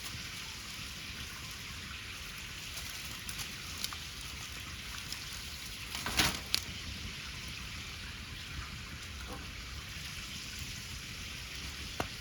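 Wood bonfire crackling: a steady hiss with scattered sharp pops, and a louder crackle and pop about six seconds in.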